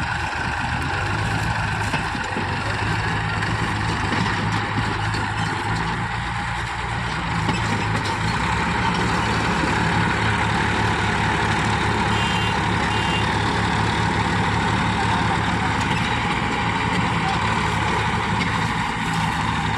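Mahindra tractor's diesel engine running steadily with an even low drone.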